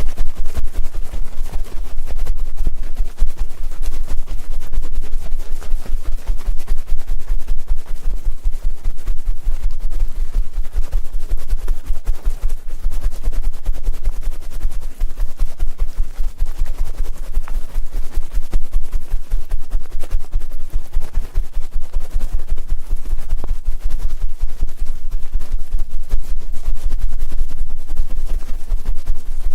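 ASMR ear-cleaning scratching right on the microphone: a continuous dense, rapid crackle of rubs with a heavy low rumble, no breaks.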